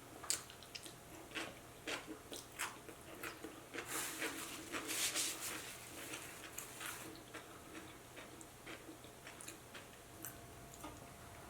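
Close-miked chewing of a Burger King Whopper: a string of soft wet mouth clicks and smacks, with a denser patch of rustling, crunching noise from about four to seven seconds in.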